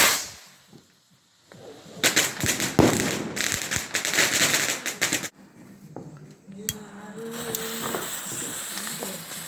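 Firework rocket bursting overhead: a loud bang about two seconds in, followed by about three seconds of dense crackling cracks that stop abruptly.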